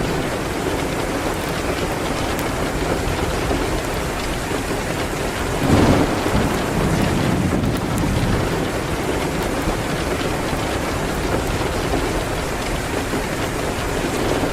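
Steady heavy rain with faint fireplace crackles, and one brief louder surge of sound about six seconds in.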